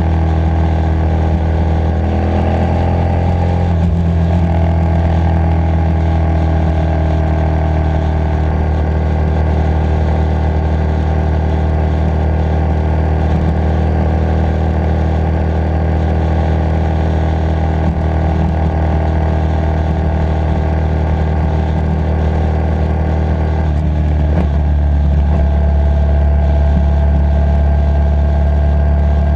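Motorcycle engine running under way at a steady cruise, its pitch climbing briefly a couple of seconds in and shifting again a few seconds before the end.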